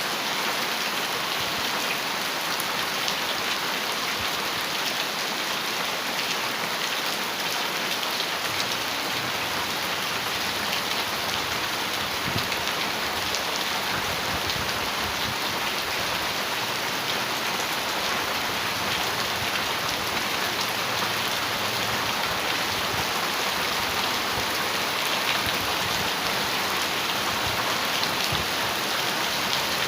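Heavy rain falling steadily on a metal roof: a dense, even patter with no let-up.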